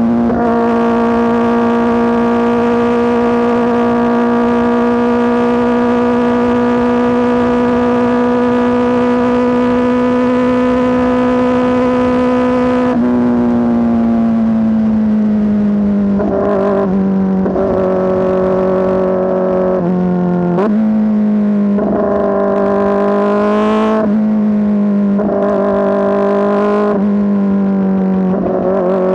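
Kawasaki ZX-4RR's inline-four engine through an SC-Project S1 exhaust, loud, held at steady high revs with a slowly rising pitch. About 13 seconds in the revs ease down, then rise and drop sharply several times in quick succession.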